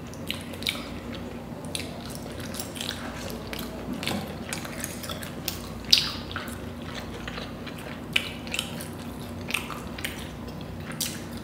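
Close-up eating sounds of steamed chicken momos: irregular wet mouth clicks and smacks while chewing, with one sharper smack about six seconds in.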